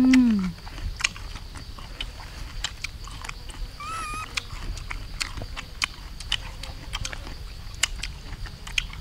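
Close-up crunching and chewing of sour fruit: irregular crisp bites and mouth clicks, with a short falling "mm" at the start and a brief warbling chirp about four seconds in.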